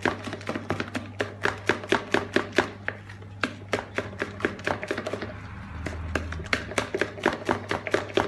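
Hand whisk beating cake batter in a bowl: quick, even clicks of the whisk striking the bowl, about five a second, with a short lull about halfway through. The batter is being whipped by hand to make the cake light and airy.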